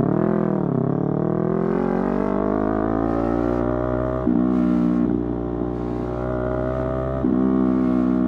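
Yamaha YZF-R3 parallel-twin engine accelerating hard under load, its pitch climbing steadily, broken by two gear changes about four and seven seconds in.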